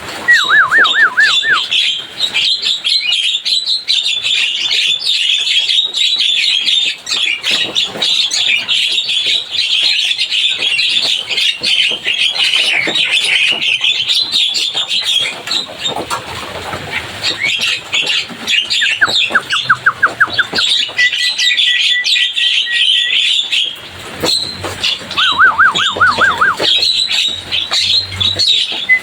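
Javan myna (jalak kebo) chattering without a break, a busy stream of chirps and squawks. Three short, fast warbling trills come about a second in, around 19 s and around 25 s, and a steady held whistle sounds for a couple of seconds around 21 s.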